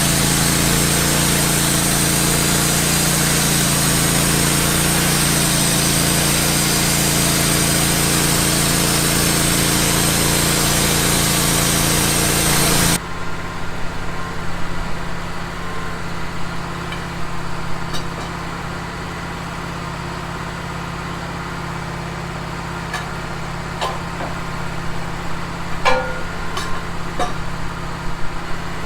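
Wood-Mizer band sawmill cutting a pine log, its engine running steadily with the blade's loud hiss. About halfway through, the cutting noise cuts off suddenly and the engine keeps running quieter and steady, with a few knocks near the end.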